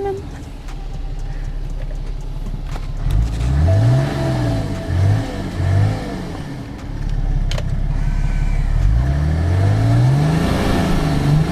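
BMW F01 730d's 3.0-litre straight-six diesel revved through its modified exhaust. There is a long rise and fall in revs about three seconds in, two short blips, then another long rev around nine seconds in. The exhaust is fairly quiet: more of the engine is heard from the front than from the tailpipes.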